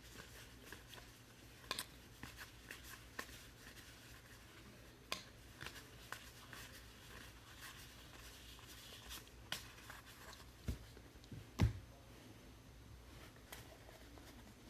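Trading cards and packs being handled on a table: faint rustling and scattered light clicks, with a soft thump about twelve seconds in.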